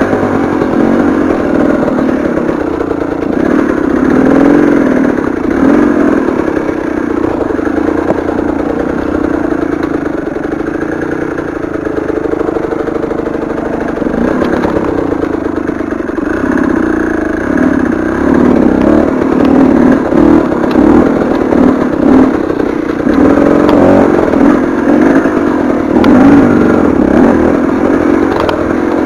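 Single-cylinder two-stroke engine of a KTM 300 TPI enduro motorcycle being ridden, revving up and down again and again with the throttle as it works over rough ground.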